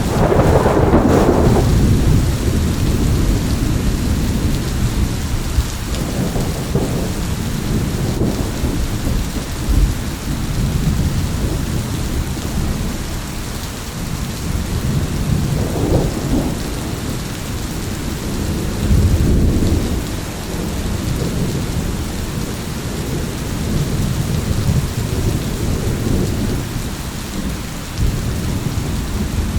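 Steady rain with rolling thunder: a loud rumble at the start that dies away, then lighter rumbles about halfway through and again a few seconds later, over continuous rain hiss.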